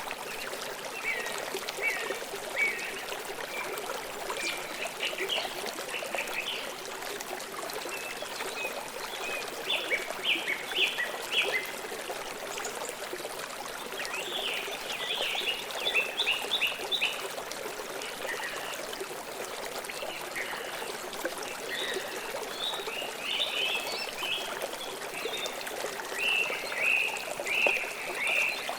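Shallow river water flowing and trickling steadily, with birds chirping in short bursts of quick notes every few seconds.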